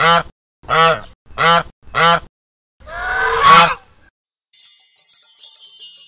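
Goose honking: four short honks about two-thirds of a second apart, then one longer, louder honk. About four and a half seconds in, a high twinkling chime sound effect begins.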